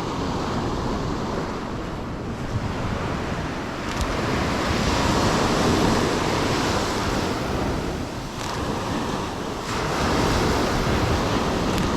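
Ocean surf breaking and washing up the beach, swelling louder about four seconds in and again near the end, with wind buffeting the microphone.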